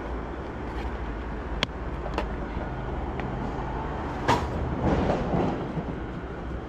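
Wind buffeting the microphone as a steady low rumble, with a few sharp clicks and knocks, one about a second and a half in, one a little after two seconds and one past four seconds, and a brief swell of noise about five seconds in.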